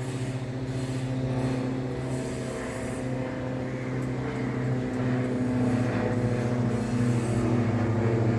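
Aircraft engine running with a steady, even-pitched drone that grows slightly louder toward the end.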